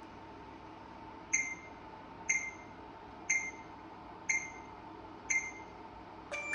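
Dyson HP09 purifier fan running with a steady whoosh and hum. Over it come five short, high electronic beeps about a second apart, then a different brief chime right at the end.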